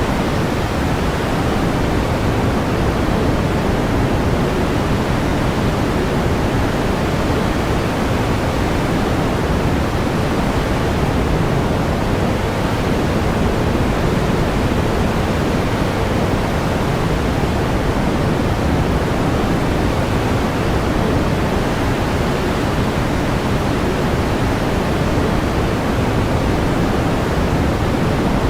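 Pink noise: a steady, unchanging hiss, fuller in the bass and softer in the treble.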